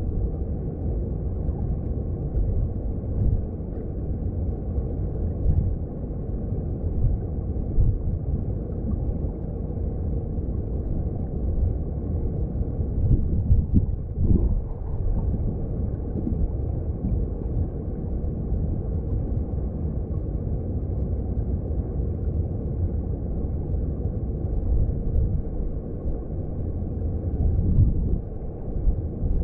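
Mountain stream heard underwater: a steady, low rumble of rushing water, with a brief swell about halfway through.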